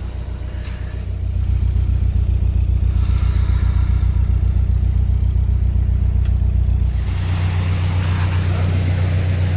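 Narrowboat diesel engine running with a steady low rumble; it gets louder about a second in as the throttle opens, and its note shifts about seven seconds in.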